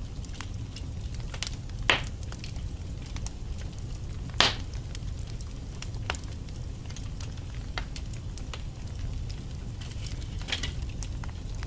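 Wood fire burning in a fireplace: a steady low rumble of flames with scattered crackles, and louder pops from the logs about two seconds in, near the middle and near the end.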